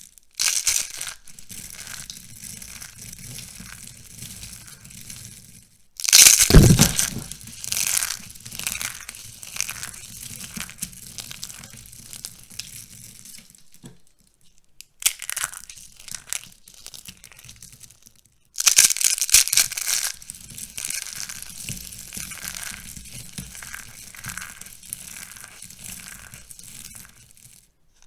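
Dried soap being crushed by hand, with crisp crunching and crackling in repeated bursts. The loudest crushes start suddenly about six seconds in and again near the two-thirds mark, and there is a brief pause just before the middle.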